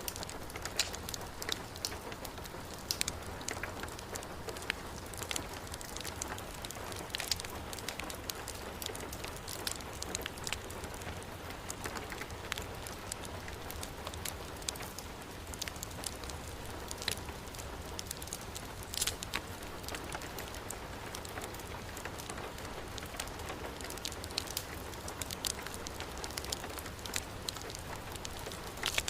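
Heavy rain falling steadily, mixed with a crackling wood fire, with frequent irregular sharp pops and ticks.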